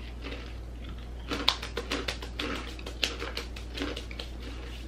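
Crunchy chewing of a mouthful of Cheez-It snack mix: a pretzel piece, a Cheez-It cracker, a mini bagel chip and a Cheeto crushed together. A quick, irregular run of sharp crunches starts about a second in and thins out near the end.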